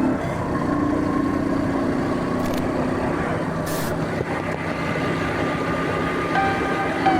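Steady road and engine noise of a vehicle on the move, an even rushing sound with a faint low hum.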